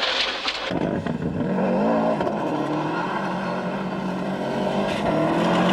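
Group A rally car's turbocharged four-cylinder engine heard from inside the car at speed, its note dipping and rising with throttle and gear changes. A hiss cuts off abruptly less than a second in.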